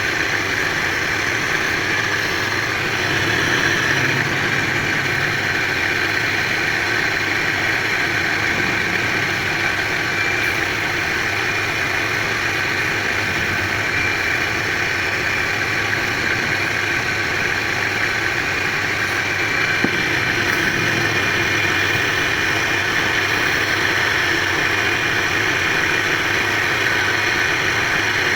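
A motor-driven machine running steadily at an even speed, with a constant hum and a band of higher whirring.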